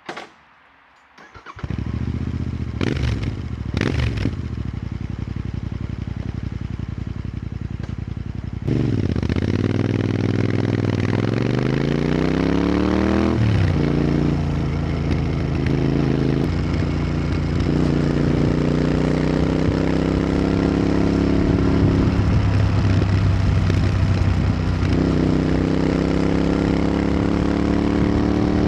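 Royal Enfield Continental GT650's 648 cc parallel-twin engine, breathing through Powerage short aftermarket exhausts, starting up about a second and a half in and idling. It is then revved: a long rise in engine speed that drops back, followed by slower swells in revs.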